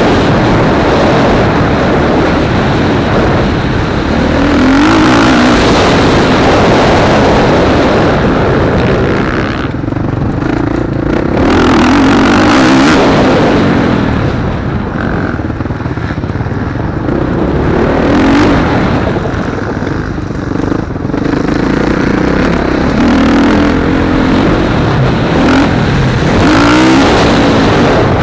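Motocross motorcycles racing around the track, their engines revving up and dropping back again and again as they accelerate and shift through the gears.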